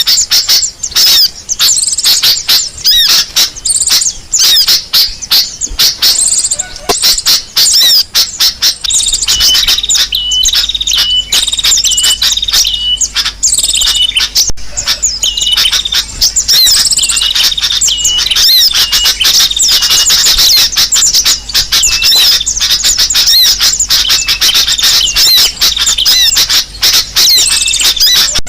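Bird-lure recording of sogo ontong sunbird calls mixed with sooty-headed bulbul (kutilang) calls: a loud, dense stream of rapid high-pitched chirps and twitters. From about nine seconds in, a short note repeats at regular spacing beneath them.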